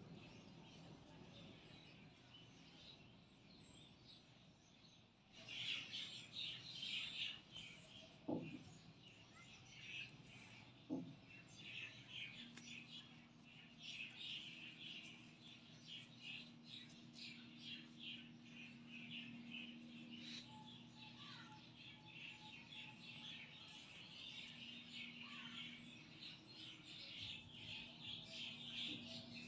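Faint, rapid high-pitched chirping of small birds starts about five seconds in and keeps going. A faint steady low hum comes in near the middle.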